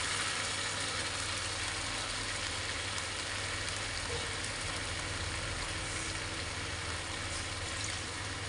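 Chicken feet, gizzards and livers sizzling steadily in a frying pan in a spiced sauce just thinned with a little water, over a low steady hum.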